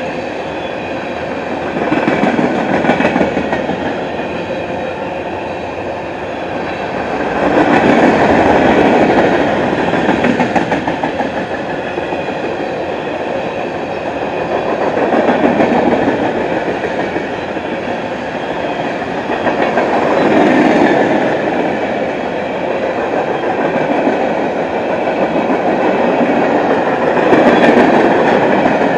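Empty high-sided open-top freight cars rolling past, their steel wheels clattering over the rail joints. The rumble swells louder about every five to six seconds.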